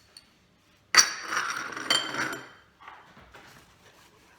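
A spoon knocks sharply against a glass or dish, then scrapes and clinks against it for about a second and a half, as tomato paste is spooned into the sauce.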